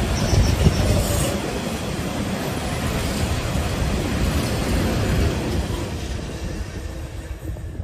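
A train passing close by: a steady loud rush of wheel-on-rail noise that fades over the last couple of seconds as it draws away.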